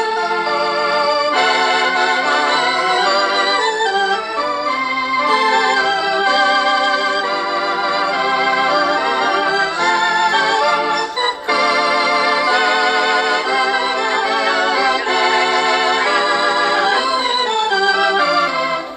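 Electric organ playing a busy melody of changing notes, its held tones wavering with vibrato, with a brief break about eleven seconds in.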